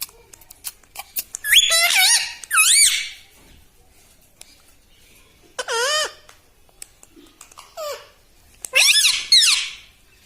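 Pet parrot making shrill, wavering calls in short groups: a run of calls in the first few seconds, one around six seconds in, a short one near eight seconds and a pair near the end, with faint clicks in between.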